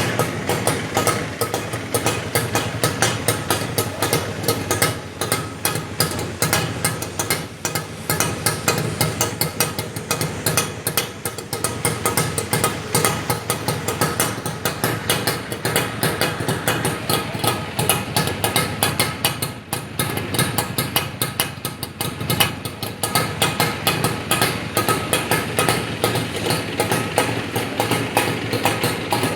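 IZh Jupiter 5 motorcycle's two-stroke twin-cylinder engine running at idle, a rapid, even beat.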